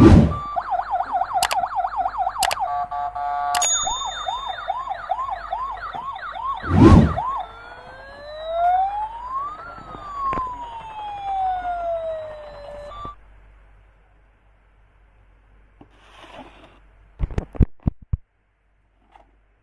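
Toy police car's electronic siren: a fast repeating yelp of rising chirps, then a slow rising and falling wail, cutting off suddenly about two-thirds of the way in. Two loud thumps sound over it, and a few faint clicks follow near the end.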